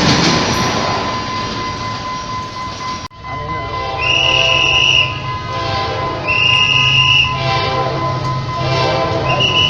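Train running noise, then after an abrupt cut a locomotive running with its horn sounding three short blasts, each about a second long.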